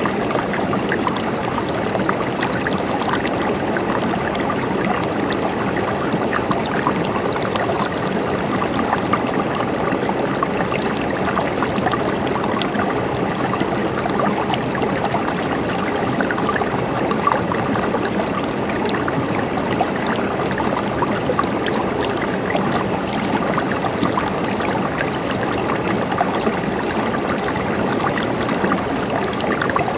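Stream water running steadily, a continuous rushing trickle with many small splashes.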